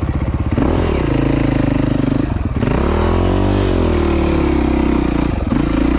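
Dirt bike's four-stroke engine idling, then revved: the pitch climbs about half a second in, drops briefly, and rises and falls again a second later before settling at a steady higher speed.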